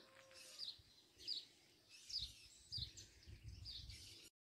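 A small bird calling faintly and over and over, a short falling chirp about once a second, over a faint low rumble. The sound cuts off abruptly near the end.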